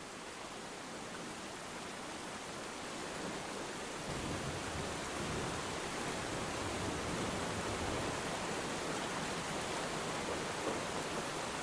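Steady hiss of light rain falling over a quiet sea shore, swelling gradually over the first few seconds; a deeper, fuller rush joins about four seconds in.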